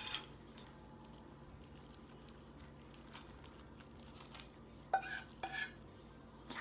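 A fork clinking against dishware: two sharp, ringing clinks about five seconds in, after a quiet stretch.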